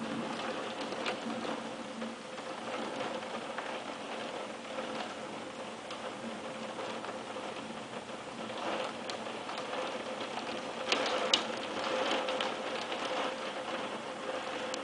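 Thunderstorm rain falling steadily on hard surfaces, with scattered sharp taps of drops or small hailstones and a couple of louder clicks about eleven seconds in.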